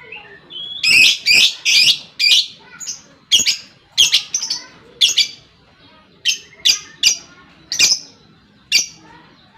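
Lovebird giving a series of sharp, shrill calls, about fourteen separate bursts at an uneven pace, some in quick pairs or triplets.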